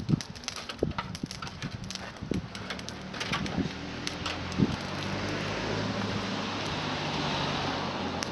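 Small twig bonfire crackling with scattered sharp pops and knocks, then a steady hissing rush that sets in about halfway through and holds.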